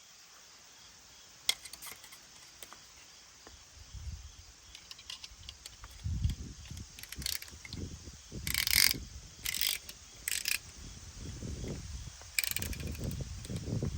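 Hand work on an engine: scattered metal clicks and clanks with a few short rasping bursts, like tool and part handling, and low thuds in the second half.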